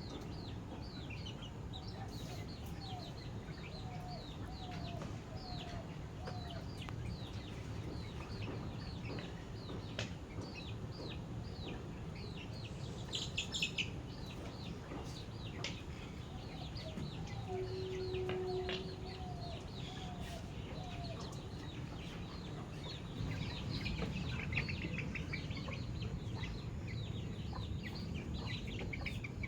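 Chicks peeping continuously, a steady stream of short falling chirps, with runs of lower, softer clucking notes now and then over a steady low background rumble.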